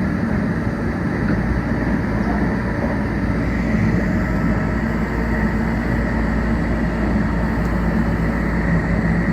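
Meitetsu 1800 series electric train heard from inside the car while running, a steady rumble of wheels on rail with a faint motor hum.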